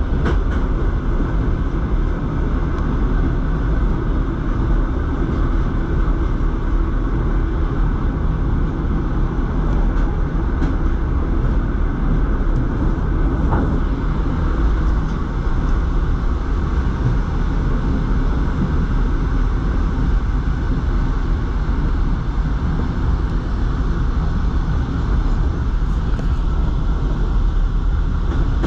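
Suburban passenger train running along the line, heard from inside the carriage: a steady, loud rumble of wheels on rails, with a few faint clicks over the rail joints.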